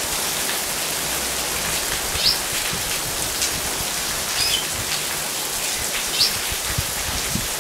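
Heavy storm rain pouring onto a wet paved street, a steady hiss, with a short high chirp about every two seconds.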